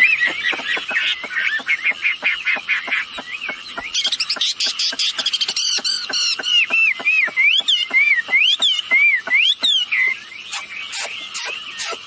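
Wambi bird song: a fast run of sharp chattering notes mixed with wavering whistles, turning after a few seconds into a dense high chatter and then looping up-and-down whistled phrases. It is quieter near the end.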